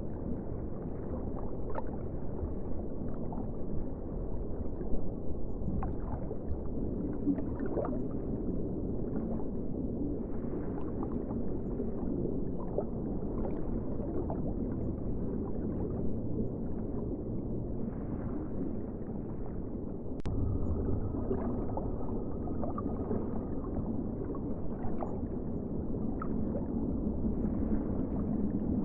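Ocean water ambience: a steady, muffled, low-pitched rush with small gurgles and clicks scattered through it.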